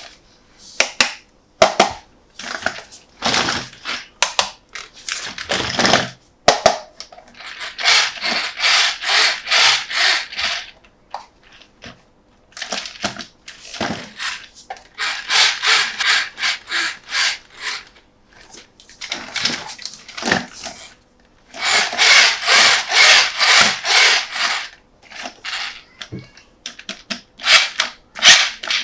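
Close-miked handling sounds: quick, evenly repeated rubbing and scratching strokes on a toy and its packaging, in runs of a few seconds with sharp clicks and taps between them.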